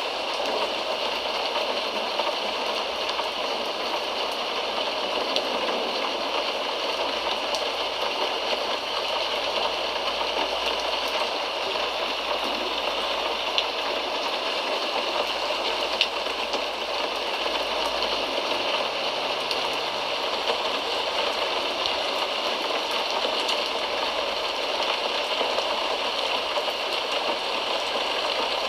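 Steady rain: an even hiss of falling water, with a couple of sharper drop taps about halfway through.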